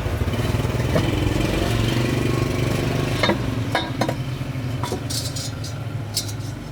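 Truck engine running steadily, with a few sharp metallic clinks and knocks on top; the engine sound eases off near the end.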